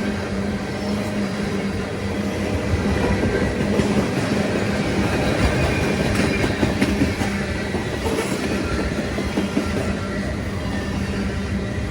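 A train rolling past on the rails, its wheels clattering steadily over the track under a constant low hum.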